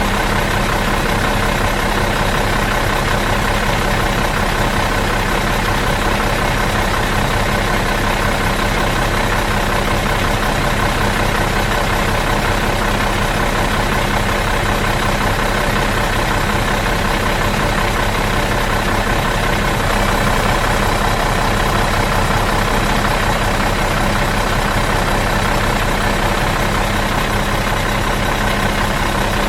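Bus engine idling steadily out of gear, an even unchanging hum.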